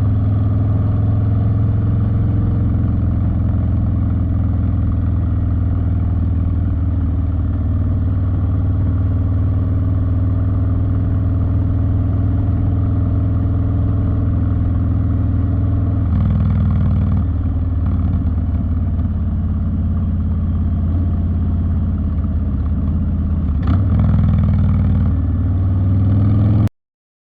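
Harley-Davidson Street Bob's V-twin engine running steadily through a TBR two-into-one exhaust, with a short click a few seconds before the end. The sound cuts off abruptly near the end.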